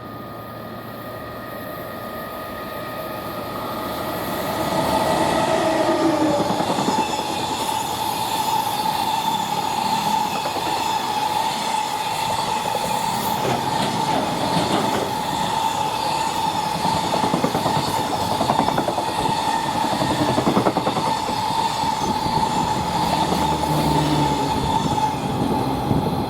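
EF210 electric locomotive hauling a freight train past at speed. It approaches, growing louder, and its whine drops in pitch as it passes about five seconds in. The wagons follow with a steady clickety-clack over the rail joints and a high, steady ringing squeal from the wheels.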